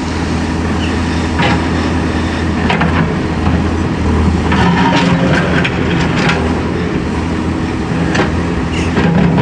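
Diesel engine of heavy road-repair machinery running steadily under load, with several sharp knocks and clanks over it.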